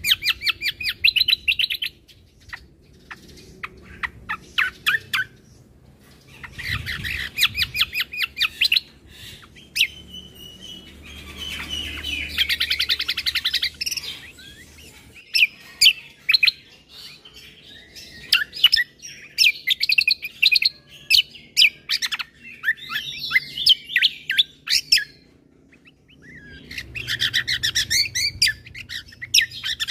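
Kecial kombo (cucak kombo) singing in a series of fast chattering phrases of quick rising chirps, each a few seconds long, with short pauses between them.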